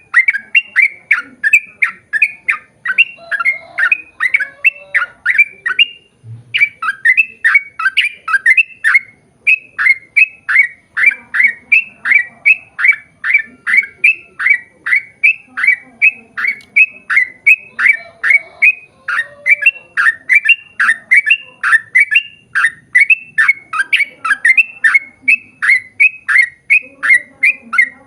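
Yellow-vented bulbul (trucukan) singing a long, rapid chattering run of short notes that each drop in pitch, about two to three a second, with a brief break about six seconds in.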